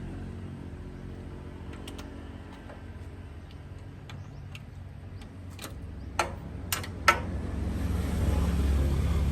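A steady low engine hum that grows louder near the end, with three sharp metallic knocks in quick succession just before it swells.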